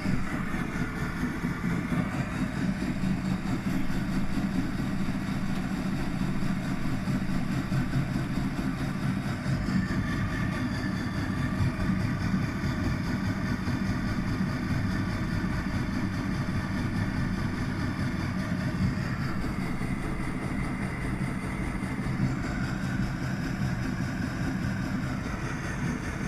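Washing machine running: a steady motor hum with a whine above it that shifts in pitch a few times.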